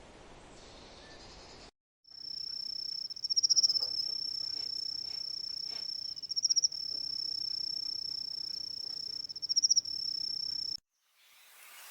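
Insect trilling: a steady, high-pitched trill with three louder pulsing swells about three seconds apart. It starts abruptly about two seconds in and cuts off suddenly near the end.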